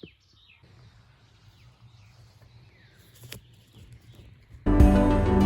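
Faint birdsong: scattered chirps over a quiet morning background, with one sharp click about three seconds in. Near the end, background music starts suddenly and is much louder.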